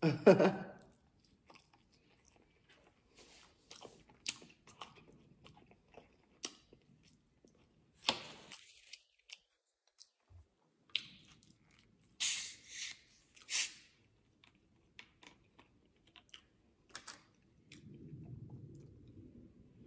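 Close-miked chewing of fries dipped in ranch, wet chewing with scattered crunches. A few louder crunchy bites come about eight seconds in and again around twelve to thirteen seconds in.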